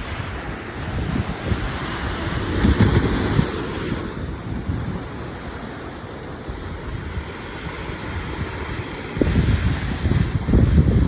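Sea waves washing on the shore, with wind buffeting the microphone in heavy low gusts about two to four seconds in and again near the end.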